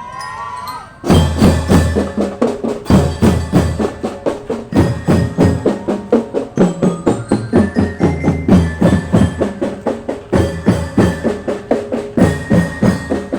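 School drum band playing: after a quiet opening the full band comes in sharply about a second in, drums beating a steady, quick march rhythm with heavy bass drum under a bright mallet-percussion melody.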